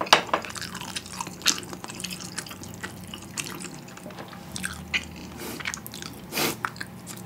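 Close-miked mouth sounds: chewing with small wet lip and tongue clicks at irregular intervals, over a faint steady hum. A short hiss, like a breath, comes about six and a half seconds in.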